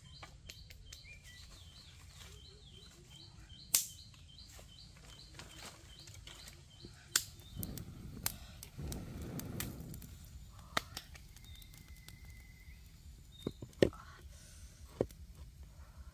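Quiet forest ambience: a bird repeats a short chirping call about three times a second for the first several seconds, and later gives a brief steady whistle. Scattered sharp clicks and knocks sound throughout, with a short stretch of rustling noise around the middle.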